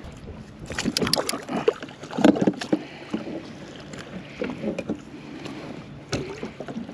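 Scattered knocks, clicks and rustling as gear and the catch are handled aboard a kayak. The loudest knocks come about a second in and just after two seconds.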